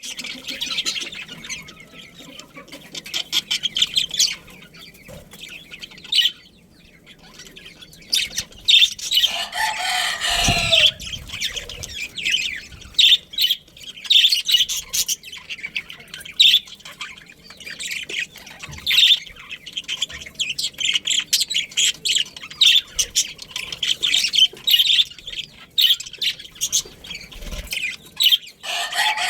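A flock of budgerigars chattering and chirping continuously, with a louder squawk that falls in pitch about ten seconds in and another near the end.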